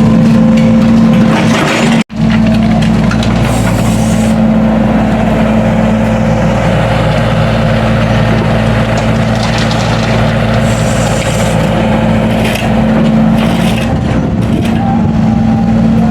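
Heavy diesel engine running steadily with a constant low hum, like road-construction machinery at work. The sound cuts out for an instant about two seconds in, then carries on unchanged.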